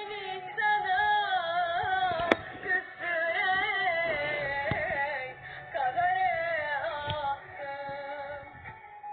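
A high voice singing a wavering, ornamented melody with long sliding notes. There is a sharp click about two seconds in.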